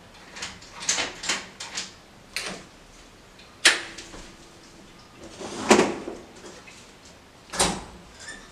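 Household handling sounds: a quick run of light clicks and knocks, then three louder knocks about two seconds apart, the first leaving a short low ring.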